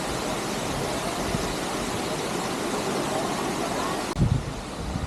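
Steady rush of a waterfall, even and unbroken. About four seconds in it changes abruptly to a duller, quieter rush with a low thump.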